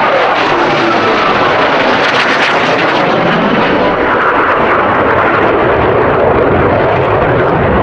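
Blue Angels jet aircraft flying past, a loud, steady engine noise throughout, with a pitch that slides down during the first second as an aircraft passes.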